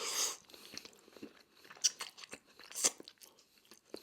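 Close-miked chewing of crunchy Korean fried chicken: a run of small, sharp crunches, with a couple of louder ones around the middle.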